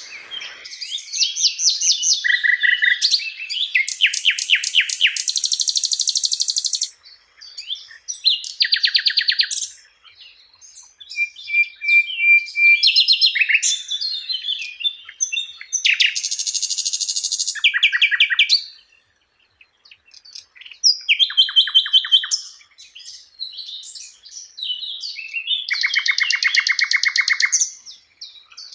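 A sikatan londo flycatcher singing vigorously: a varied run of phrases, each a fast trill or rapid string of repeated high notes, separated by brief pauses.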